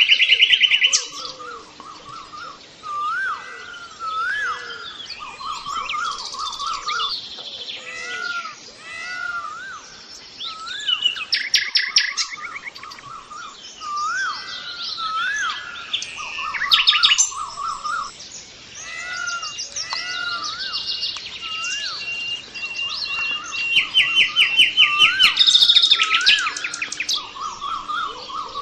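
Several birds singing and chirping together: short rising-and-falling whistles repeating throughout, with louder rapid trills breaking in every few seconds.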